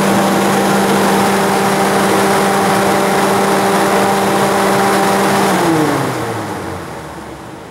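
Dayton 3 HP tube axial exhaust blower running at full speed: a steady rush of air with a motor hum. About five and a half seconds in it winds down, the hum falling in pitch and the air rush fading as the fan coasts to a stop.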